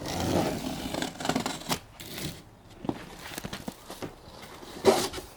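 Packaging being handled and torn open: crinkling and rustling with scattered light knocks, and one sharper knock near the end.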